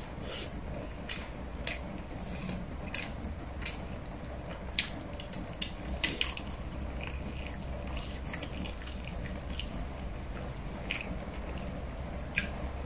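A person eating braised pork and rice by hand: wet chewing with sharp lip-smacking clicks, many in the first half and only a couple later, over a low steady hum.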